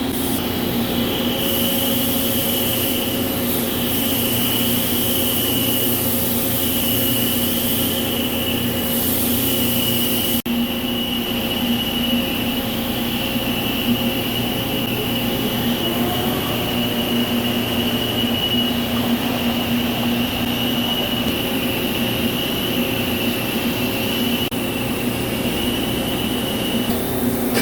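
CNC vertical lathe running as it turns a steel wheel: a steady machine hum with a high, even whine from the cutting. A brief dropout about ten seconds in.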